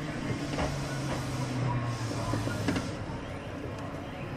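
Inside a Kintetsu 5800-series electric commuter train coming to a stop: a low steady hum from the train fades out about two seconds in, leaving the quieter sound of the car standing still.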